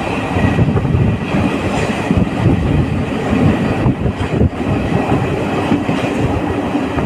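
Train running along the track: a steady heavy rumble with a few sharp clacks of wheels over rail joints.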